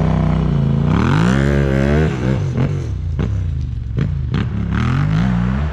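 Yamaha Ténéré 700 parallel-twin motorcycle engine and exhaust under way, revving up hard about a second in, dropping back, then pulling again. Several sharp knocks and clatter come through in the middle.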